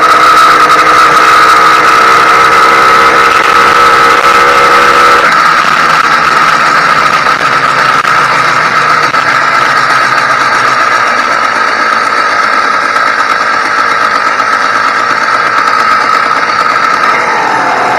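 YD100 two-stroke motorized-bike engine running steadily during its break-in. The tone shifts about five seconds in, and the engine speed drops slightly near the end.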